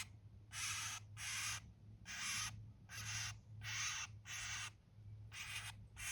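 A bird trapped in garden netting gives a rhythmic series of harsh, hissing distress calls, about eight of them, one every two-thirds of a second.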